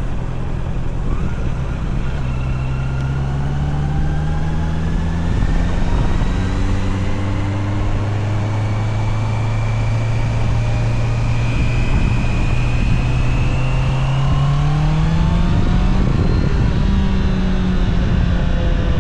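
Honda CBR650R's inline-four engine pulling under way, its note dipping once about five seconds in, then climbing slowly and rising more sharply near the end before holding steady.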